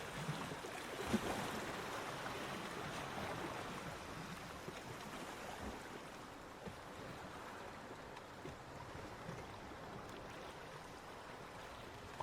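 Waves on a beach: one breaker surges in during the first second or two, then its wash slowly fades as it draws back, with small crackles along the way.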